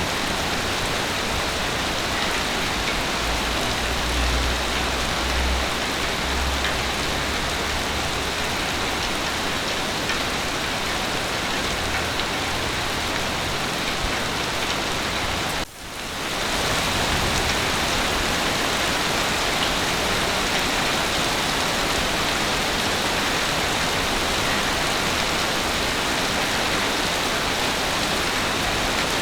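Heavy rain falling steadily, an even hiss, with a faint low rumble a few seconds in. A little past halfway the rain sound briefly drops out and fades back in.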